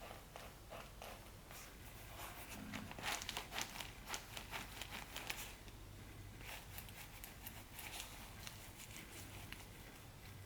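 A running shoe's sole being flexed and handled, with the paper stuffing inside the shoe crinkling. A run of crackles and clicks, loudest about three to five seconds in, then scattered ones.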